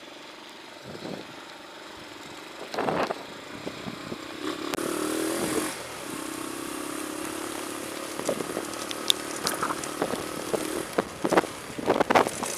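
A motor vehicle's engine running steadily for several seconds over a hiss of rain, with a knock about three seconds in and a flurry of sharp knocks near the end.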